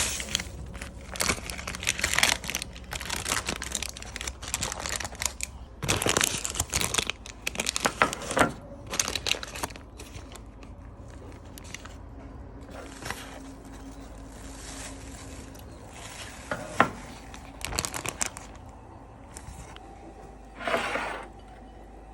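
Crinkling and rustling of something being handled, in dense repeated bursts for about the first ten seconds, then only a few scattered rustles.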